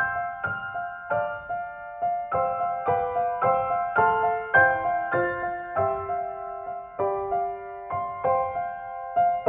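Background music: a gentle piano melody, single notes struck at about two a second and each dying away.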